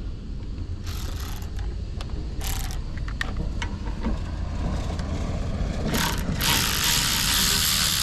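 Ratchet wrench clicking in short runs as a fitting seized with grime is unthreaded, then a loud hiss lasting about two seconds near the end.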